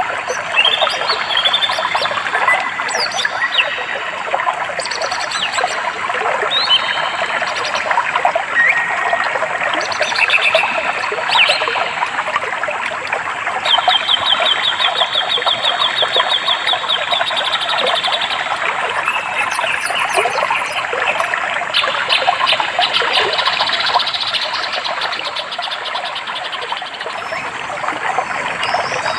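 A stream running steadily, with songbirds calling and singing over it: many short chirps and whistles, and two long, fast trills, one near the middle and one later on.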